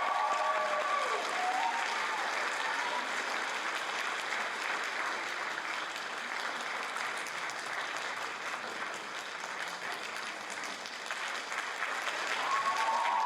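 Audience applauding after a stage dance performance; the music fades out in the first couple of seconds and pitched sound comes back near the end.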